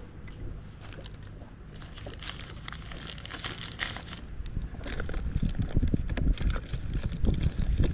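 Packaging crinkling and crackling as it is handled, with wind rumbling on the microphone, the rumble growing stronger in the second half.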